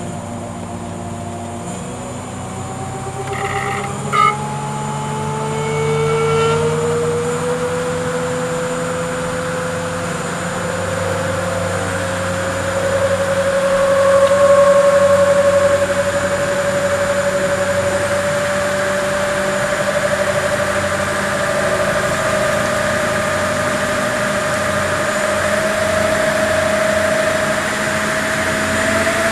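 Crystalyte 406 e-bike front hub motor spinning the wheel up in a spin test, its whine climbing gradually in pitch as the wheel gains speed, with a short click about four seconds in.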